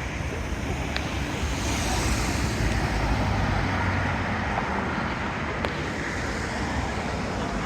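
City street traffic noise: a steady hum of road vehicles, with one passing vehicle's tyre and engine noise swelling about two seconds in and slowly fading.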